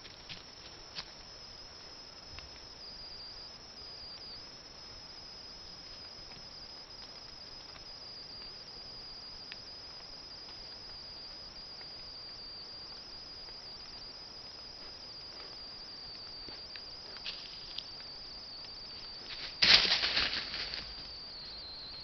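Crickets trilling steadily and continuously at a high pitch, with a few faint clicks early on and a short, loud rustle close to the microphone near the end.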